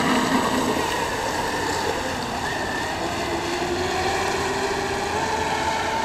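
Fast-electric RC racing boat running on the water, its motor and propeller giving a steady whine that rises slowly in pitch, over a wash of water and wind noise.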